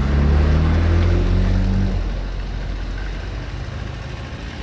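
A classic car's engine running close by, loud for about two seconds and then fading as the car moves away.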